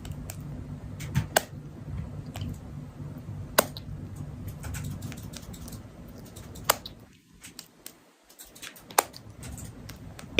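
A few sharp, separate clicks or taps, about a second or more apart, over a low steady hum, which drops out briefly for about a second a little past the middle.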